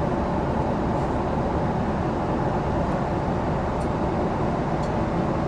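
Steady airliner cabin noise in flight: an even, low rush with no change.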